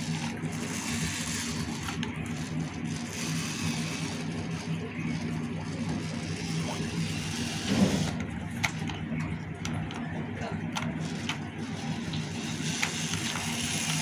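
Small motor and gearbox of a homemade RC tractor running with a steady hum, with a few sharp clicks about two-thirds of the way through.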